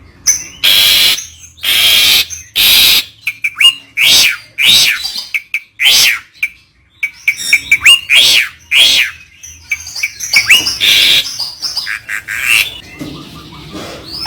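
A bird calling repeatedly in irregular bursts: loud, harsh, screechy calls alternating with short, sharp whistled notes that bend up and down.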